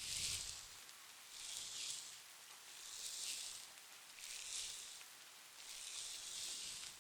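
Wet konjac sponge rubbed in slow strokes on the microphone: five soft swishes, each about a second long, coming about every second and a half. Underneath is a faint, steady soft rain.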